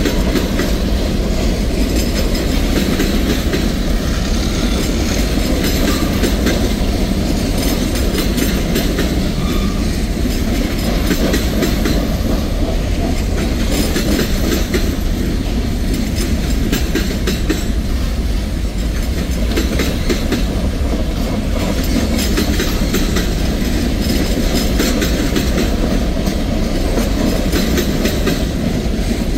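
A freight train's open-top hopper cars rolling past at a steady pace: a loud, continuous low rumble of steel wheels on rail, with repeated clicks as the wheels cross the rail joints.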